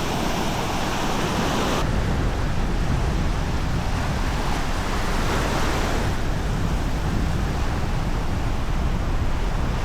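Surf washing onto a sandy beach, a steady rush that swells and eases, with wind. The hiss thins a little about two seconds in.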